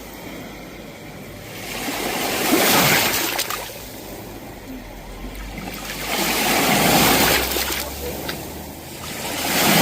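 Sea waves breaking and washing ashore, swelling and fading three times, each surge about three to four seconds after the last.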